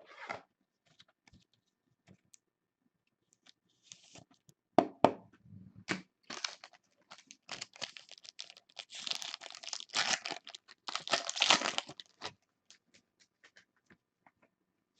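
Plastic and paper card packaging being torn open and crinkled while trading cards are handled, with a sharp knock about five seconds in and a denser burst of crinkling in the second half.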